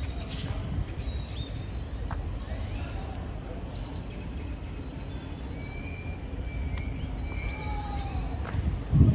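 Low wind rumble on the microphone with scattered short bird chirps, and a brief loud low thump near the end.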